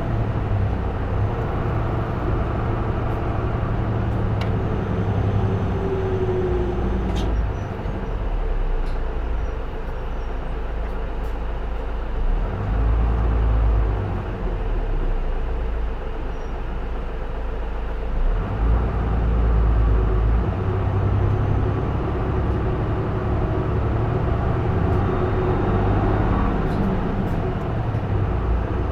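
Isuzu Erga (J-Bus PKG-LV234L2) city bus's inline-six diesel engine and drivetrain heard from inside the cabin while driving, with the heater running. The engine sound eases off about twelve seconds in, leaving mostly a low rumble, and picks up again about six seconds later.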